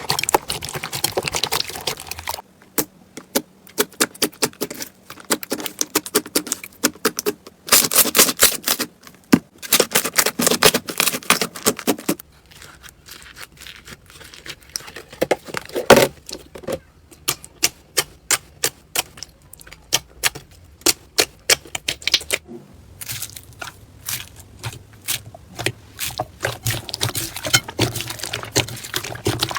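Slime being squeezed and pressed by hand, giving quick runs of sharp clicking and crackling pops, in several separate takes.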